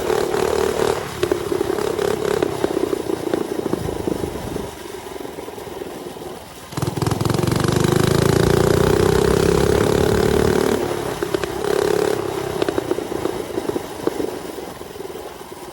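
Mini bike's small engine running while riding. It eases off about halfway through, then revs back up with a rising pitch for a few seconds before backing off again.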